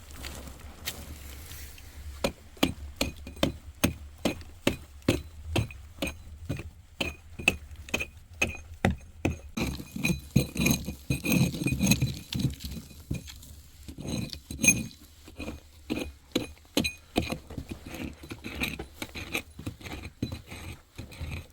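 A steady run of sharp clinking taps, about two to three a second, each with a short ring.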